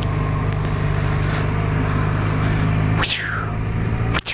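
Motorcycle engine idling steadily, with a short falling squeak about three seconds in.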